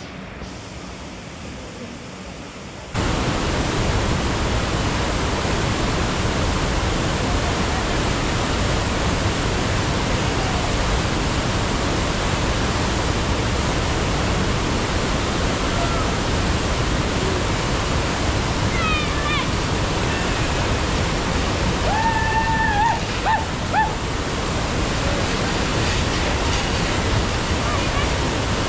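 Loud, steady rush of fast-flowing water, such as a waterfall or a river in spate, starting abruptly about three seconds in. A brief high-pitched call cuts through the rush near the end.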